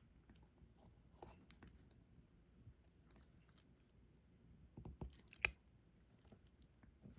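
Faint, scattered clicks and taps of a diamond-painting drill pen picking up small resin drills and pressing them onto the sticky canvas. The sharpest tap comes a little past halfway.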